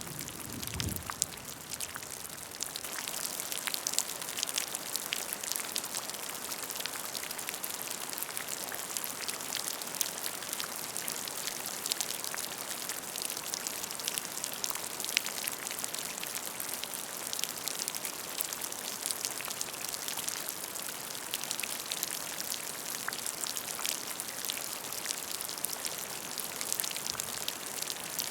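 Steady rain falling on a puddle, with many small drops pattering and plinking on the water surface.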